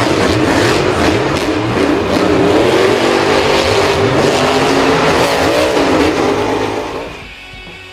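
Vehicle engine revving, its pitch rising and falling, then fading out near the end.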